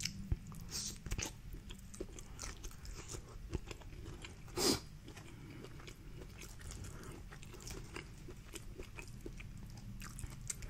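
Close-miked chewing and soft wet mouth clicks of someone eating, with one louder short sound about four and a half seconds in.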